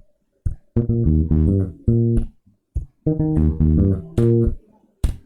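Bass guitar played solo, a groove line of plucked notes in three short phrases with brief silent gaps between them.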